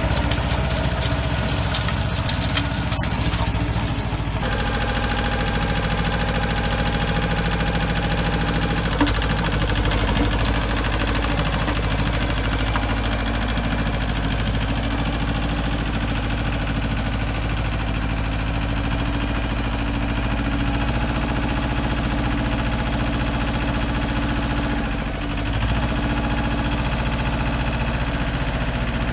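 Yanmar compact tractor's diesel engine running steadily while it drives a PTO rotary tiller through the garden soil, with a brief dip in level about 25 seconds in.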